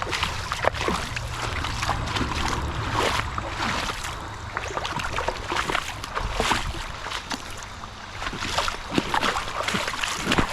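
Shallow creek water splashing and sloshing in irregular strokes, over the steady trickle of the running stream.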